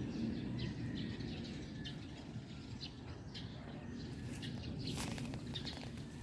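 Small birds chirping, short high calls repeated again and again, over steady low outdoor background noise, with a brief crackle about five seconds in.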